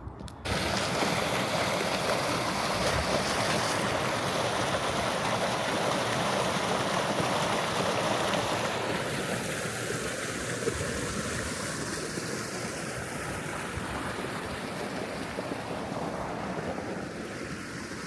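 Waterfall rushing: a steady hiss of falling water that sets in about half a second in and eases a little in the second half.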